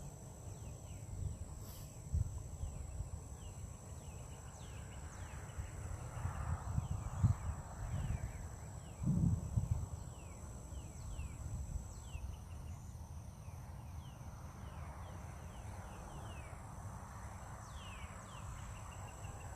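Open-air morning ambience: a steady high insect drone, birds calling in many short falling notes, and a low rumble with a couple of bumps about seven and nine seconds in.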